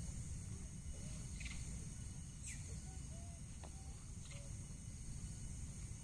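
Forest ambience: a steady high-pitched insect drone, with short chirping bird calls dotted through it and a low rumbling hiss underneath.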